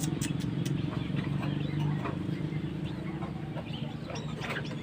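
Short, scattered calls and clicks from young slaty-breasted rail chicks being hand-fed a grasshopper, over a steady low hum.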